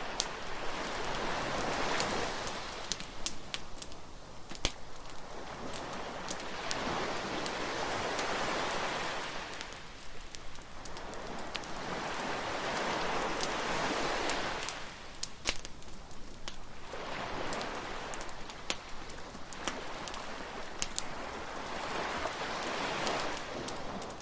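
Wood fire crackling with frequent sharp pops, over surf washing onto the shore in slow swells every few seconds.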